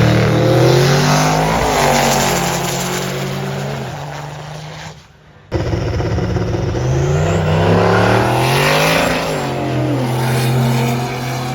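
Drag race cars at full throttle making passes down the strip, the engine pitch climbing and then dropping as each car goes by. The sound breaks off for a moment about five seconds in, then another pass follows.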